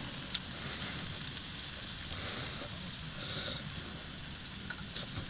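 Mushrooms sizzling steadily as they fry on a hot pan, with a few faint ticks and pops.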